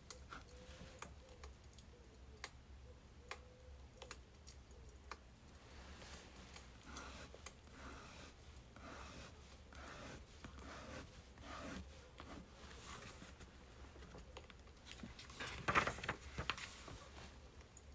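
Birch firewood burning, with faint, irregular crackles and pops and a louder cluster of crackles near the end.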